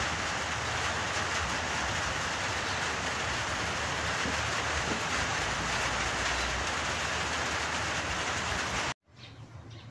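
Heavy rain falling steadily as an even hiss, which cuts off suddenly about nine seconds in, leaving a much quieter background.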